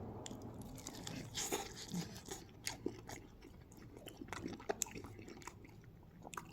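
Close-up chewing of crispy chicken wings: scattered soft crunches and mouth clicks. The skin is air-fried to crunchiness.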